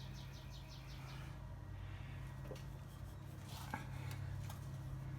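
A cloth rubbing quickly back and forth over a car's painted rear valance, wiping off exhaust soot with citrus cleaner, at about seven strokes a second for the first second. After that come a few light clicks, over a steady low hum.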